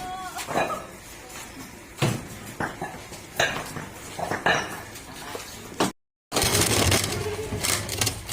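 Irregular metal clinks, knocks and scrapes, with a brief cut to silence about six seconds in, followed by a louder, noisier stretch of clatter.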